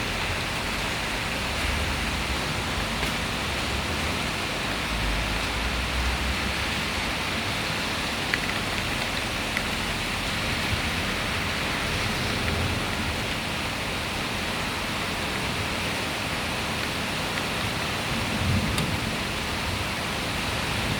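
Heavy rain pouring steadily in a thunderstorm, with low rumbles of thunder now and then, the plainest one near the end.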